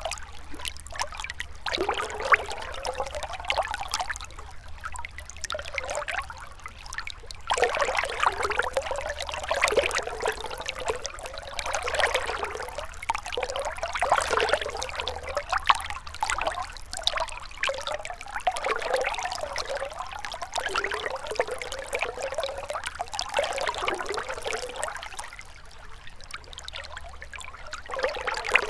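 Gentle river water trickling and babbling over rocks, the flow swelling and easing every few seconds.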